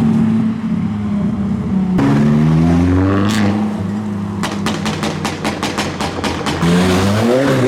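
Car engines running as modified cars drive past, with a rapid run of sharp crackles partway through and one engine revving up near the end.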